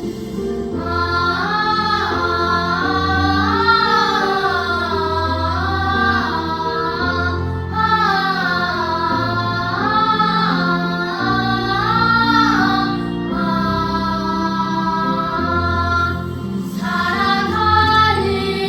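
Children's vocal ensemble singing a slow, flowing melody over a sustained instrumental accompaniment, with short breaths between phrases.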